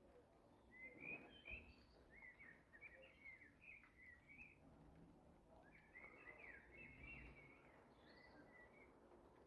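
A songbird singing faintly: two warbling phrases of quick rising and falling notes, the second starting about six seconds in.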